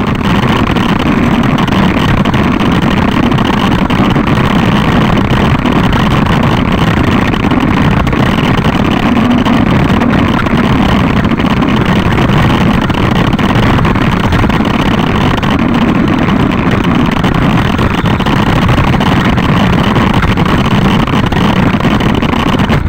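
A loud, steady motor drone with a rushing noise that barely changes in pitch or level.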